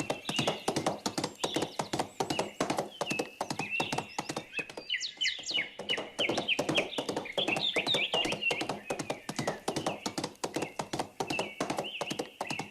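Horse hooves clip-clopping in a fast, uneven run of knocks, with small birds chirping over them, most busily around the middle.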